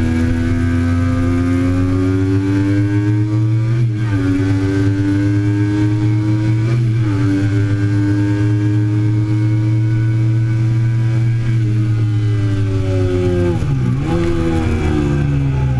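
2008 Triumph Daytona 675's three-cylinder engine pulling hard under acceleration, its pitch climbing, with quick breaks in the note about four and seven seconds in as it shifts up. Near the end the note drops with brief dips as it shifts down.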